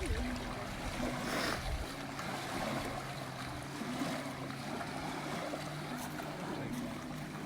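Steady outdoor noise of wind on the microphone and lake water, with a faint low steady hum underneath and a brief brighter rush about a second and a half in.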